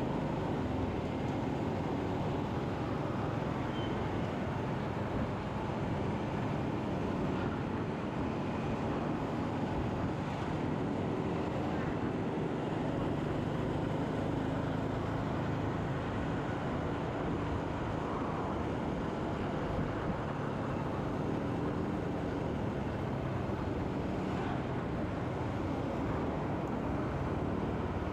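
Motorcycle riding along a road in traffic: its engine running steadily under a constant rush of road and wind noise.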